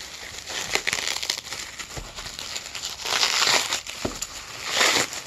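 Packing material crinkling and rustling as it is pulled out of a cardboard shipping box by hand. The sound comes in irregular bursts with sharp crackles, loudest about three seconds in and again just before the end.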